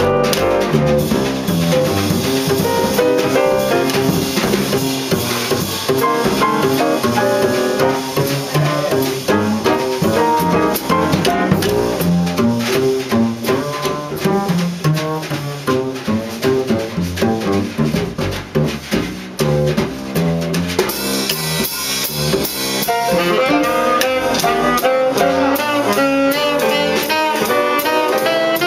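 Small jazz combo of saxophone, piano, double bass and drum kit playing live, with busy drumming and cymbals throughout and a horn line coming in again in the last several seconds.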